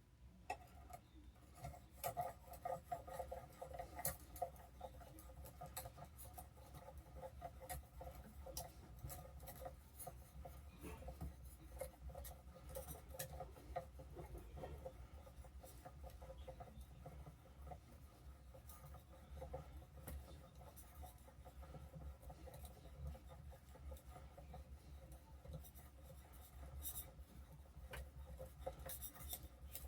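Stanley No. 9½ block plane blade being honed on a fine black Arkansas sharpening stone: a faint, continuous scraping rub of steel worked across the stone.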